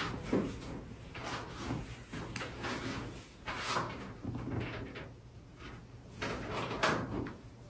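Irregular rustling and soft thumps of hands, fabric and a treatment table being worked during a manual-therapy massage and stretch.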